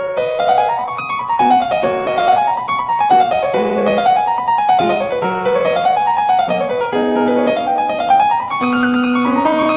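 Piano music: fast runs of notes rising and falling again and again over held lower notes.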